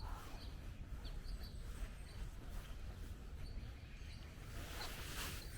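Short, faint bird chirps scattered over a low steady outdoor rumble, with a brief rustle about five seconds in.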